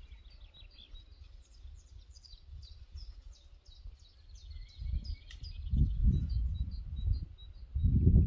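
Small songbirds singing, with quick runs of high chirping notes. Low rumbling noise comes in about five seconds in and again just before the end.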